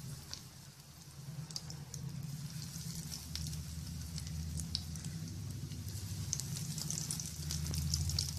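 Breaded egg kebabs frying in hot oil: a crackling sizzle with scattered pops, growing busier toward the end. A low steady hum runs underneath.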